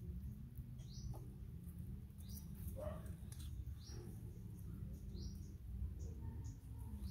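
A small bird calling with a short, high, falling chirp, repeated five times at an even pace of about one every second and a half, over a steady low rumble.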